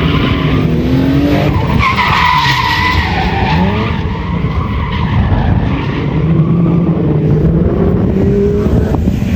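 A rally car's engine revving hard and falling back as the car is driven at speed on a stage, its pitch rising and dropping several times. A higher squeal is heard for about a second and a half, a couple of seconds in.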